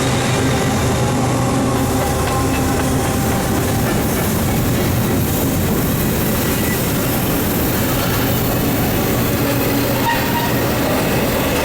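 An intermodal freight train passing close by at speed, led by two GE ES44AC diesel locomotives: a loud, steady rush of steel wheels on rail with a low engine drone underneath.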